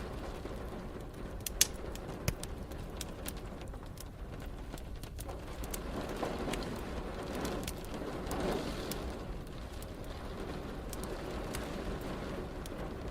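Wood fire crackling in a fireplace, with scattered sharp pops, the loudest two about a second and a half and two seconds in, over a steady hiss of rain. Low rolling rumbles of distant thunder swell up twice in the middle.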